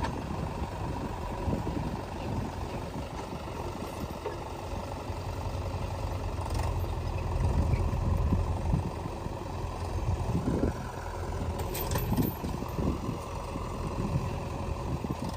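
Heavy diesel engines of the machines in the tractor rescue running steadily, louder for a couple of seconds around the middle, with a few scattered knocks.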